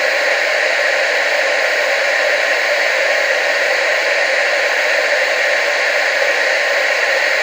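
Analogue television static: a steady, even hiss of noise, strongest in the mid and upper-mid range with almost no bass.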